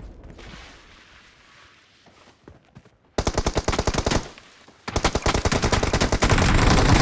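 Automatic gunfire in a first-person shooter video game: after a quiet fading lull, a short rapid burst comes about three seconds in, then sustained rapid fire from about five seconds in.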